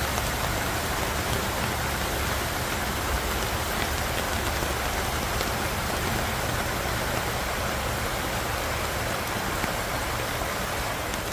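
Heavy rain falling steadily: a dense, even hiss of drops with a low rumble underneath.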